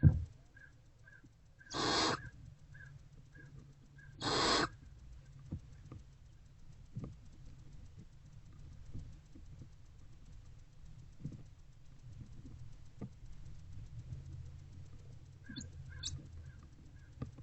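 Barn owlet giving two harsh, hissing screeches, each about half a second long and a couple of seconds apart, the food-begging call of a hungry owlet. Faint regular peeping runs under the first few seconds, followed by scattered small clicks and scuffles in the nest box.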